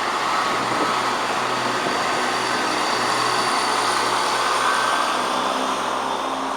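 Class 170 Turbostar diesel multiple unit pulling away, its underfloor diesel engines giving a steady drone with a low hum under it.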